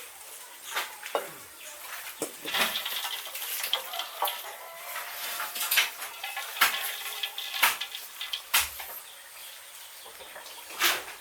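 Irregular clinks and knocks of kitchen utensils and dishes being handled, a dozen or so sharp strikes spread unevenly, with chickens faintly in the background.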